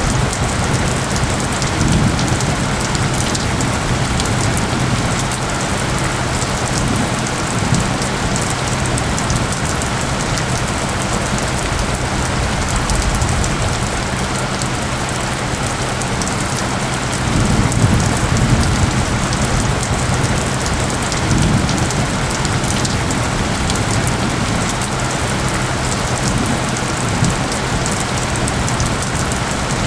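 Steady rain falling, with steady low tones beneath it. A few brief low rumbling swells rise out of it, the strongest about eighteen seconds in.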